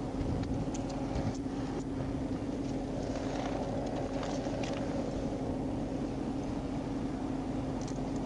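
Parked police patrol car idling: a steady low hum with a constant droning tone. A few faint clicks in the first two seconds.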